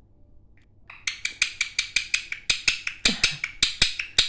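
A gecko chirping: a fast, even run of sharp clicks at about seven a second, starting about a second in.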